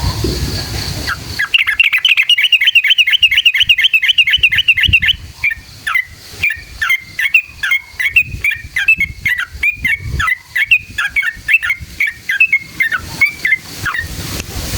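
Yellow-vented bulbul (trucukan) singing: a fast rattling trill of chirps for about three seconds, then a run of slower, separate chirps that stops near the end. A low rumble of background noise is heard at the very start.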